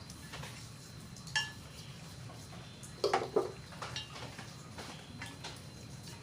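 A few clinks and knocks of hard, metal objects being handled: one rings briefly about a second and a half in, and a quick cluster of knocks comes about three seconds in, over a low steady hum.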